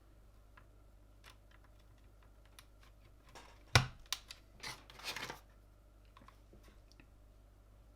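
Mechanical keyboard parts being handled during assembly: light scattered clicks, one sharp snap about four seconds in, then about a second of scraping and rustling.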